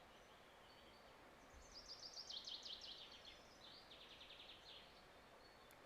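Faint songbird singing over quiet outdoor background noise: a quick run of high notes falling in pitch, then a short rapid trill.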